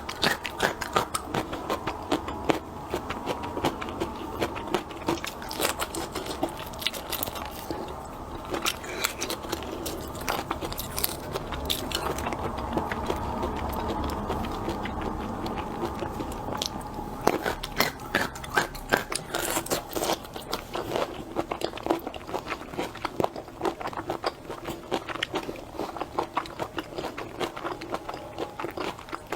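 Close-up eating sounds: shellfish shells cracking and crunching between the teeth, with chewing, as a stream of irregular crackles and clicks.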